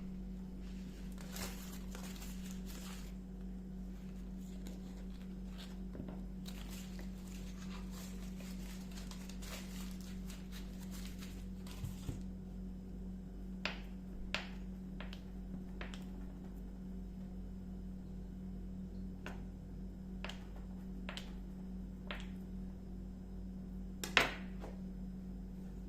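Quiet kitchen food-preparation sounds: soft rustling and handling in the first half, then scattered light taps and clicks, with one sharper tap near the end, over a steady low electrical hum.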